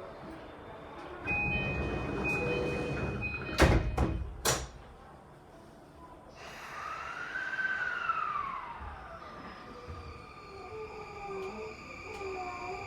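E235-1000 series train's door chime beeping, then the sliding doors shutting with two sharp thuds. A few seconds later the train pulls away, its traction motors' inverter whine gliding up and down in pitch and then settling into steady tones.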